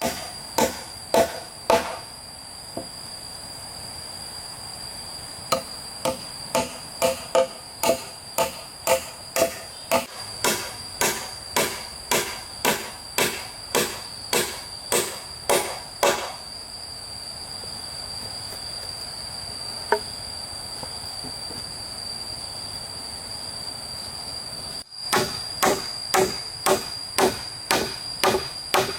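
Repeated hard strikes of a hand tool, about two a second, coming in runs with a long pause in the middle. Insects chirr steadily and high-pitched underneath.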